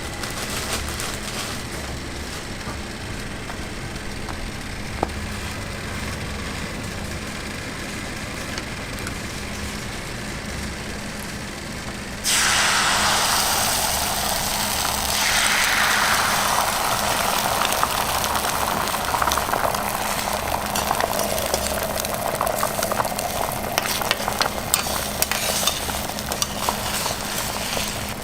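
Frying sizzle: about twelve seconds in, food suddenly hits hot fat and starts sizzling loudly with scattered crackles, then slowly settles. Before that there is only a steady low rumble.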